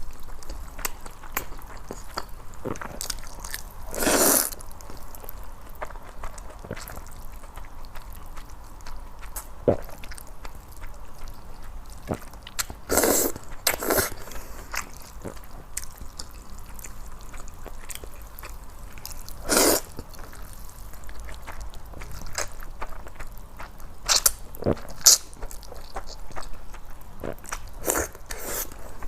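Close-miked eating of noodles tossed in salad dressing: steady chewing and small mouth clicks, with a handful of short, louder bursts spread through.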